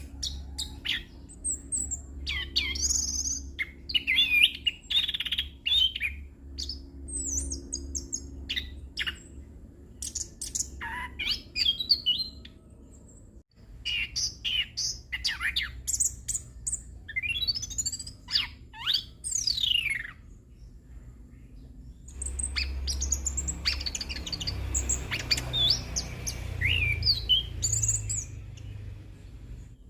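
Chestnut-capped thrush singing a long, varied song of whistles, chirps and fast sweeping notes, with a brief break about thirteen seconds in. A steady low hum runs underneath.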